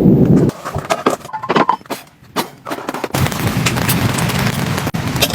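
Rain with a low thunder rumble that cuts off about half a second in, then a couple of seconds of scattered sharp taps and knocks, then steady rain noise with drops ticking, resuming about three seconds in.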